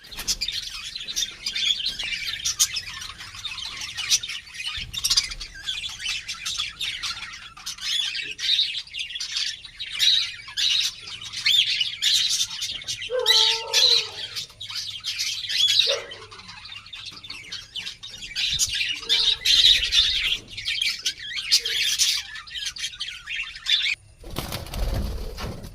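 A flock of caged budgerigars chattering and chirping continuously, with a few lower, harsher calls in the middle. A short burst of low rumbling noise comes near the end.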